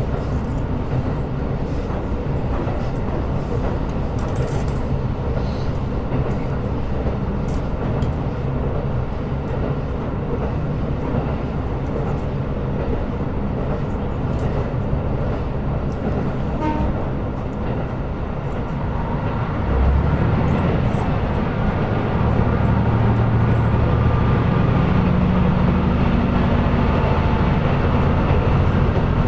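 KiHa 125 diesel railcar running along the line: steady wheel-on-rail noise with the diesel engine turning over beneath. About twenty seconds in, the engine opens up, louder, and its note rises in steps as the railcar accelerates.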